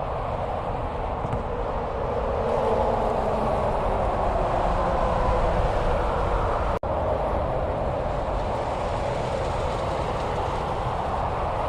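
Steady road noise of highway traffic, a continuous rush of tyres and engines without any distinct single event, broken by a brief dropout about seven seconds in.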